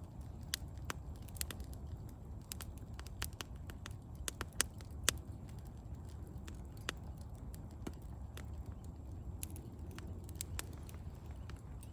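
Wood campfire crackling: irregular sharp pops, a few louder ones about four to five seconds in, over a low steady rumble.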